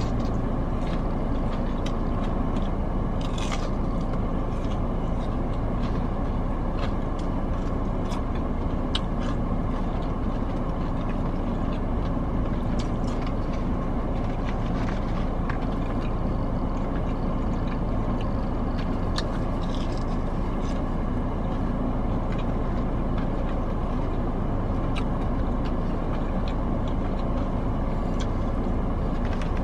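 A steady low rumble throughout, with faint crunches and clicks now and then from biting and chewing crispy fried chicken tenders.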